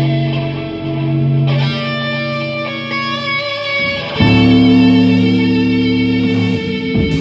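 Instrumental jam in A major: electric guitars over bass holding long sustained notes, with new notes coming in about a second and a half in and a louder change of chord about four seconds in.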